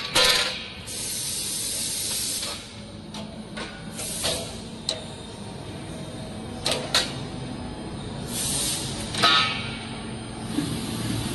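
Fiber laser tube cutting machines running: repeated bursts of hissing gas lasting up to a second and a half, a few sharp clicks and a low machine hum underneath.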